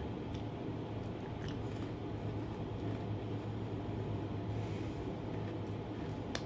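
A steady low hum fills the room, with a few faint crunches and clicks of a peanut butter cream Oreo being bitten and chewed.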